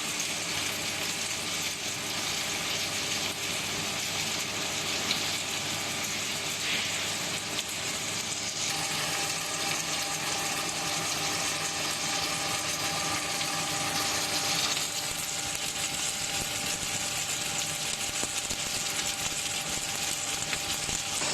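Puffed-snack production line machinery running: a steady hiss with faint steady hums underneath. The mix changes abruptly a few times, from one machine's sound to another's.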